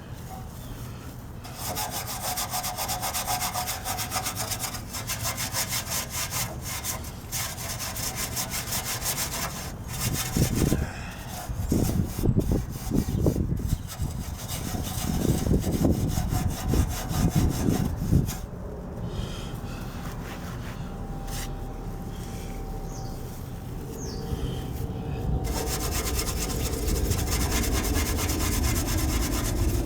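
Rapid back-and-forth scrubbing strokes on a Honda Cub's pressed-steel frame as it is wiped down, with louder irregular knocks and bumps in the middle as the frame is handled.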